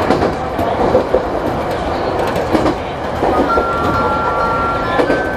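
Chichibu Railway 7800-series electric train running, heard from inside the driver's cab: steady rolling noise with the clickety-clack of the wheels over rail joints. About halfway through, a steady high whine joins in, and a slightly higher whine takes over near the end.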